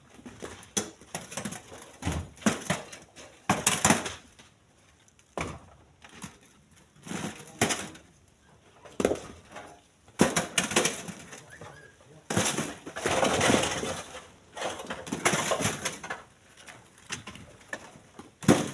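Split stones being thrown by hand into a truck's bed: many irregular knocks and clatters of rock on rock and on the bed, with a denser run of clattering about two-thirds of the way through.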